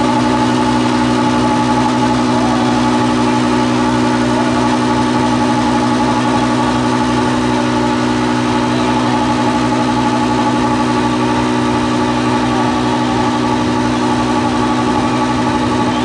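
Massey Ferguson 399 tractor's six-cylinder diesel engine running steadily at constant speed while slurry is spread, with an even low throb and a steady whining tone over it. The sound cuts off suddenly at the end.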